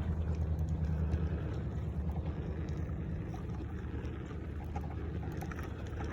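Steady low rumble of wind buffeting the microphone while riding a bicycle, with a few faint clicks.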